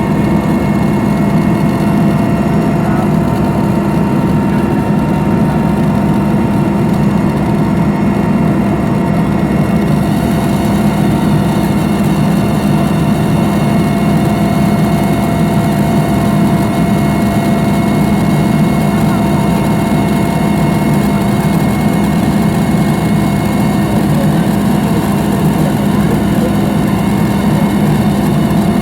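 Helicopter in flight heard from inside the cabin: a loud, steady engine and rotor drone with a low hum and several steady whining tones above it, its hiss growing slightly brighter about ten seconds in.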